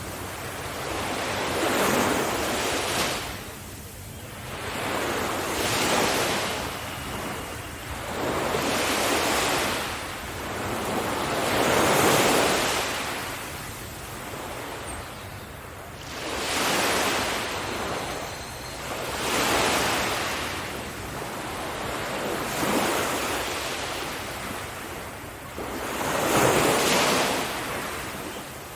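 Sea waves breaking and washing up on a beach, one surge after another, about every three to four seconds.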